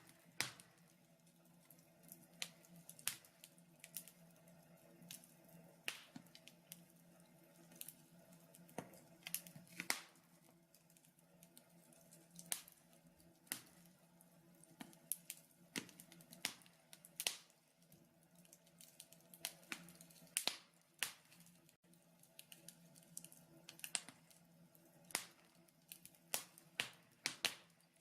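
Wood fire crackling in a fireplace: irregular sharp snaps and pops, sometimes several in quick succession, over a faint low steady hum.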